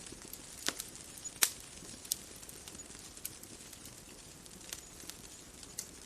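Bonfire crackling: irregular sharp pops and snaps, the loudest about one and a half seconds in, over a soft steady hiss.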